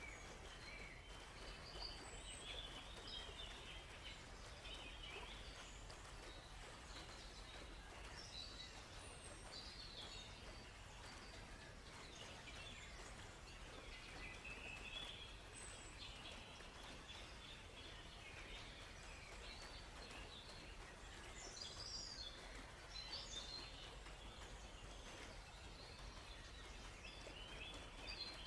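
Faint forest birdsong: many short chirps and trills from several birds, scattered throughout, over a steady low background hiss and rumble.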